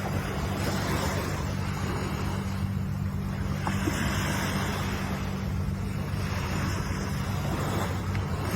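Ocean waves washing in, a steady rush of surf that swells and eases every few seconds, with a steady low hum underneath.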